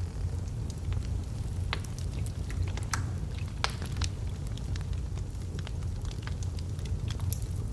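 Log fire crackling in a fireplace: irregular sharp pops and snaps over a steady low rumble of the flames, with a few louder pops around the middle.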